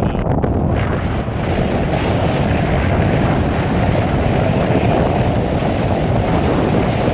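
Storm-force arctic wind blowing hard across the microphone: a loud, steady, deep rushing noise without let-up.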